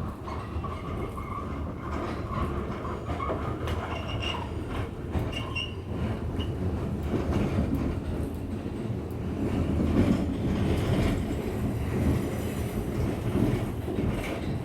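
R46 subway train running along the track: a steady rumble of wheels on rail with clicks over the rail joints, and faint high wheel squeals around four to six seconds in and again near the end.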